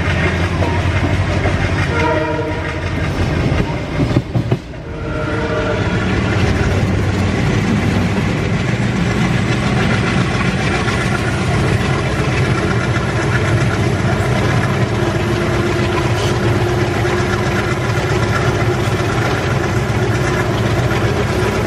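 Indian Railways train running past at speed: wheels rumbling and clacking over the rail joints, with locomotive horn blasts in the first few seconds.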